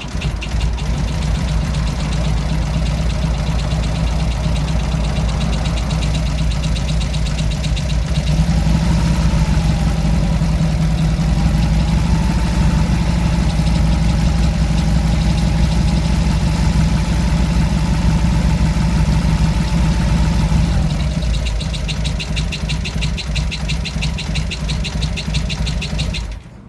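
Vehicle engine running with a fast, rhythmic 'shaka-shaka' swishing noise over it, the abnormal noise that appears after high-speed running or hard revving on mountain roads. The engine is held at a slightly higher speed for a stretch in the middle, then drops back to idle and shuts off just before the end.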